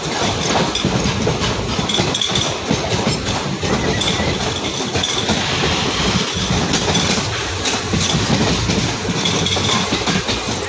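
Express passenger train running through a station, heard from inside a coach at its window: a steady rumble and rattle of wheels on rail, with irregular clicks and knocks from the track.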